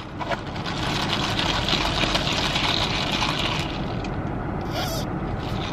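Car engine and road noise heard from inside the cabin as the car drives off, a steady rumble with a hiss that swells about half a second in and eases near the four-second mark. A brief sharp hiss comes near the end.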